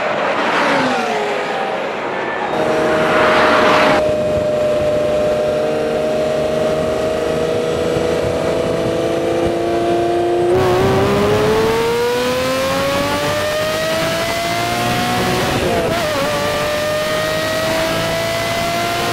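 Twelve-cylinder engines of a Lamborghini Countach 25th Anniversary and a Ferrari 512TR at full speed. First the two cars pass by with falling pitch. Then one engine is heard close up, running at a steady pitch. About ten seconds in it breaks off and climbs in a long rising pitch under acceleration, with a gear change near sixteen seconds and a further climb after it.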